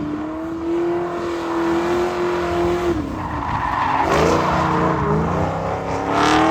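Drift car engine held at high revs, dropping off about three seconds in and climbing back, with tyres squealing through the slide; the engine note holds steady again near the end.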